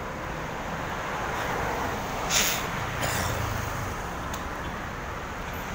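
Road traffic noise heard from a moving bicycle, with a steady rumble and rush of passing vehicles. A short hiss comes about two and a half seconds in, and a weaker one follows shortly after.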